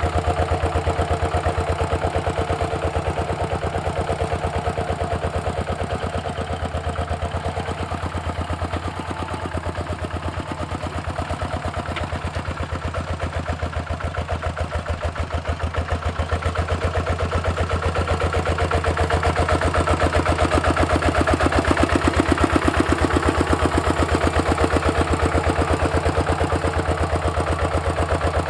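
Single-cylinder diesel engine of a walking tractor running steadily under plowing load, a fast even chugging. It eases slightly through the middle and rises again later on.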